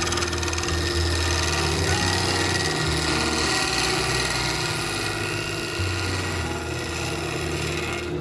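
A wood lathe spins an epoxy-and-wood bowl blank while a turning tool cuts into it. The cutting makes a steady, loud scraping hiss over the hum of the lathe. It stops suddenly at the very end.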